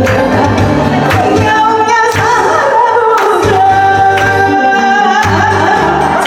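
A woman singing a Korean trot song over a backing track with a steady bass pulse, holding long notes with vibrato.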